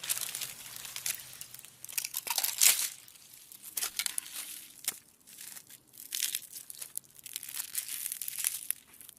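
Ice cracking in a fast run of sharp snaps and crackles that come in clusters. The loudest burst is about two and a half seconds in, with brief lulls between clusters.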